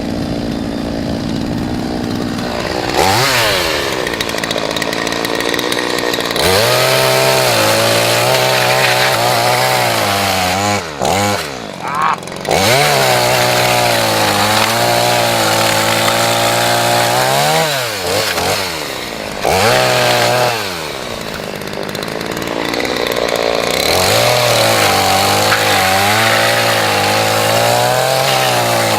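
Chainsaw idling, then revved to full throttle in several long bursts, its pitch wavering and sagging as it works through wood, and dropping back toward idle between cuts.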